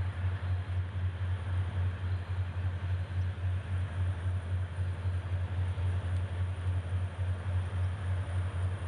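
Steady low mechanical hum that pulses about three times a second, with a faint thin high whine above it.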